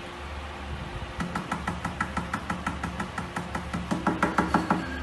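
Rapid series of sharp taps or knocks over a low steady hum. They start about a second in, come about four or five a second, and grow louder and quicker near the end.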